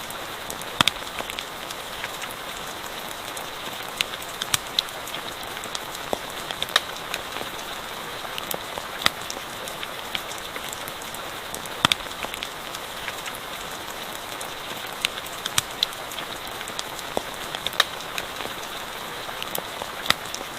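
Steady rain with irregular sharp pops and crackles from a campfire scattered through it.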